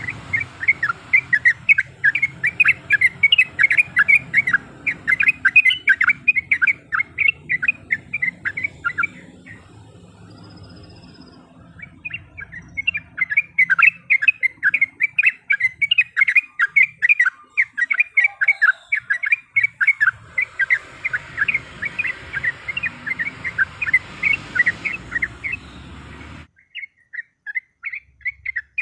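Yellow-vented bulbul (trucuk) singing long, rapid runs of bubbly chattering notes. There is a pause of about two seconds around ten seconds in, and a short break near the end before the song picks up again.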